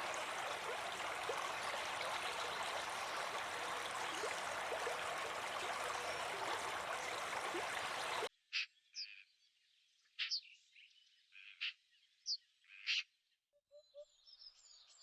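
Steady rushing water-like noise with faint chirping running through it, cutting off abruptly a little over halfway through. After the cut, a quiet background holds a series of separate short, sharp bird calls, with a few high chirps near the end.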